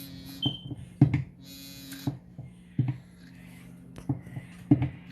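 Hand pump dispensing engine oil, worked in strokes with a dull knock on each, about five times, with short hissing bursts between.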